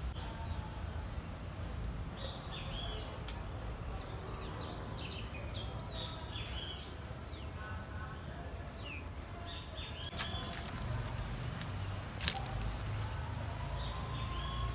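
Small birds chirping in many short, quick, arched notes, over a steady low rumble, with one sharp click about twelve seconds in.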